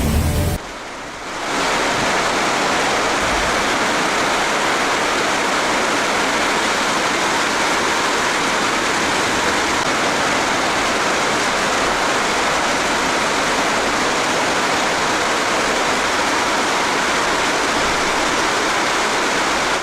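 Steady rushing water sound, starting about a second and a half in, even and unbroken, typical of heavy monsoon rain or a swollen, fast-flowing river.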